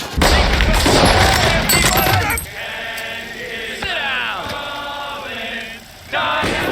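War-film battle soundtrack: a dense volley of gunfire for about the first two seconds, then many voices held together in a choir-like chant for nearly four seconds, before loud noise returns near the end.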